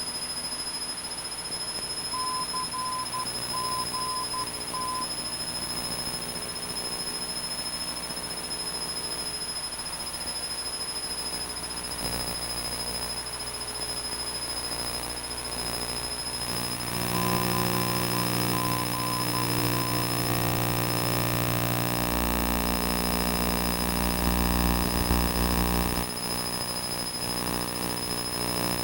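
Cessna 172's piston engine and propeller droning steadily inside the cabin in flight, growing louder and deeper about two-thirds of the way through. A short run of high beeps in a dot-dash pattern sounds twice over it.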